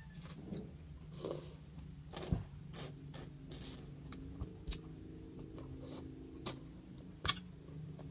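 Scattered light clicks and scrapes of eating, a spoon knocking and scraping against a bowl of soup, about a dozen times over a low steady hum.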